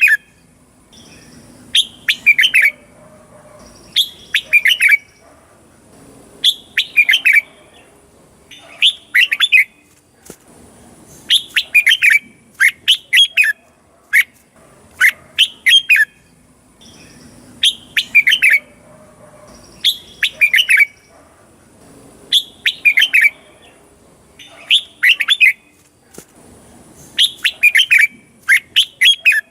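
Red-whiskered bulbul singing: short, loud phrases of quick whistled notes, repeated every one to two seconds.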